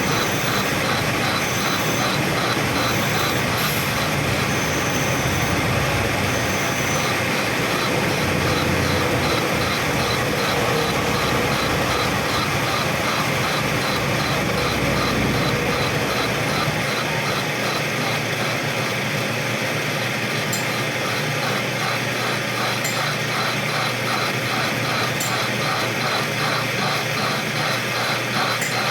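A metalworking machine running steadily, with a fast, even repeating chatter.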